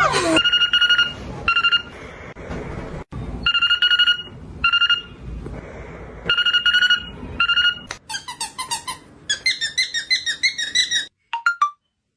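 Parrot imitating a telephone ringtone: a warbling electronic ring in pairs of bursts, one long and one short, three times over, then a quicker run of varied beeping notes.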